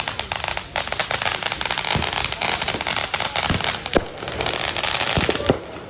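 Consumer fireworks crackling in a dense, rapid barrage of small pops, with a few brief falling whistles through it. The crackling cuts off abruptly near the end.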